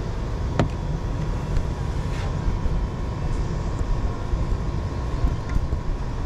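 Steady low rumble of nearby street traffic, with a faint steady hum above it and one sharp click about half a second in.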